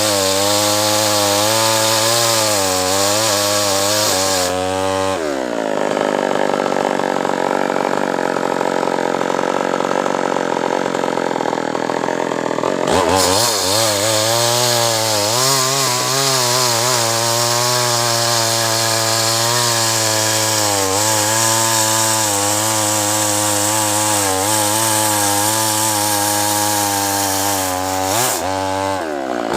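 Two-stroke chainsaw cutting acacia wood, its engine labouring at a lower, wavering pitch. About five seconds in it revs up to a higher, steadier pitch for some eight seconds, then drops back under load and labours on.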